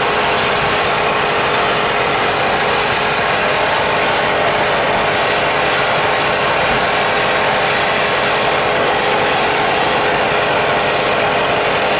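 A steady, unchanging loud mechanical running noise.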